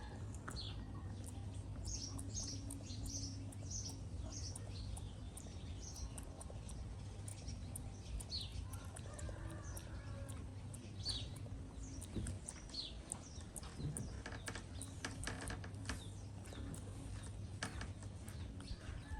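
Short, high, falling chirps repeated about once or twice a second, thinning out after the first two-thirds. Scattered sharp clicks run throughout, growing denser near the end, over a steady low hum.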